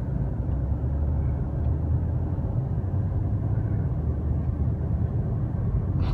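Car driving on the road, a steady low rumble of engine and tyres heard from inside the cabin.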